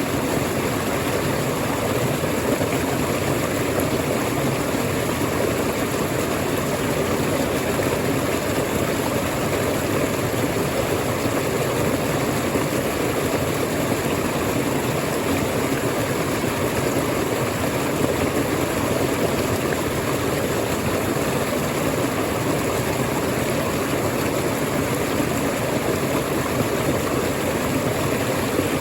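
Waterfall rushing in a steady, unbroken roar of falling water, even throughout with no changes.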